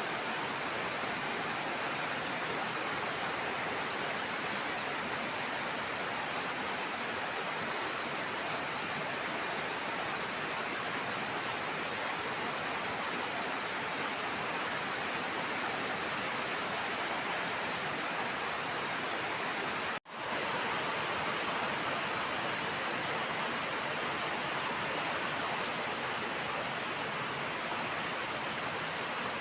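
Heavy rain falling steadily, a dense even hiss. The sound cuts out for an instant about twenty seconds in and resumes at once.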